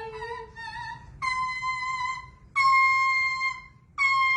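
A pet parrot singing on request in long, held, opera-like notes. A lower note steps up near the start, then three sustained higher notes of about a second each follow with short pauses between them.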